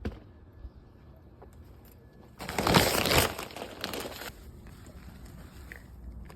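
A rustling, crinkling noise lasting about two seconds, starting a little over two seconds in, after a single sharp click at the very start.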